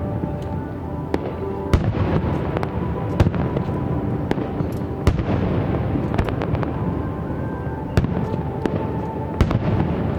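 Aerial fireworks bursting and crackling, with a sharp bang every couple of seconds over continuous crackle, and music playing underneath.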